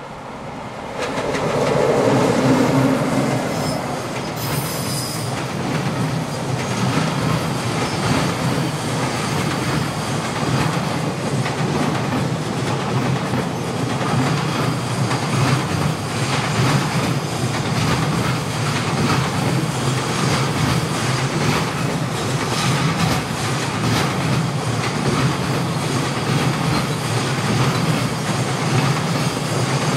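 A long container freight train hauled by an EF210 electric locomotive rushing past close by: the sound swells sharply about a second in, then the container wagons' wheels clatter steadily over the rail joints as the train runs by.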